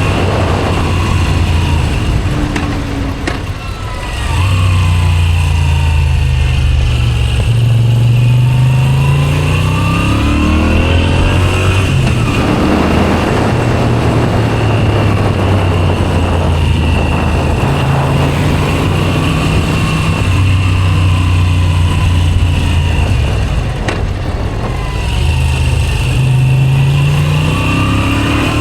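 Moto Guzzi V7 850's air-cooled transverse V-twin through a Zard aftermarket exhaust, accelerating up through the gears: the engine note climbs in each gear and drops back at each shift, several times over. There is a brief easing off about three to four seconds in.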